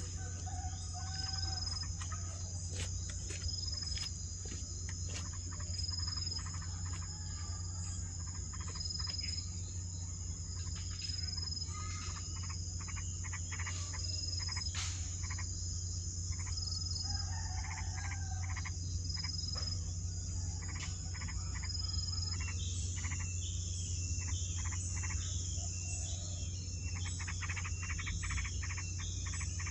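Insects droning steadily at a high pitch under a steady low hum, with short chirping calls scattered through and coming in quick repeated runs near the end.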